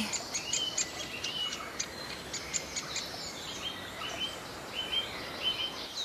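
Small birds chirping: a scatter of quick high clicks in the first second, then a run of brief repeated chirps at one pitch.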